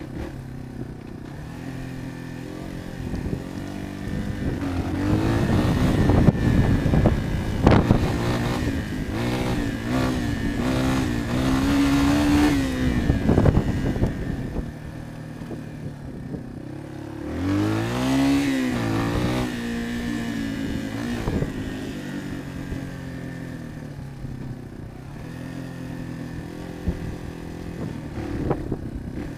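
Yamaha XT225's single-cylinder four-stroke engine running low and steady, then pulling under throttle for about ten seconds with its pitch rising and falling, with a couple of sharp knocks. A short rev about two-thirds through, then it settles back to a steady low running.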